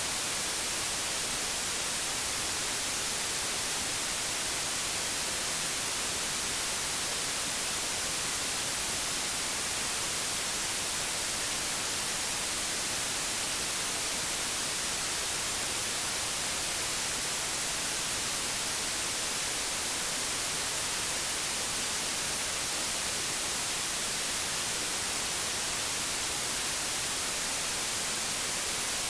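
Old analogue television static: a steady, unchanging hiss, strongest in the high frequencies.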